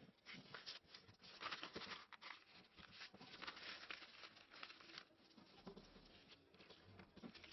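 Faint, irregular rustling and creasing of a sheet of paper being handled and folded into a paper airplane.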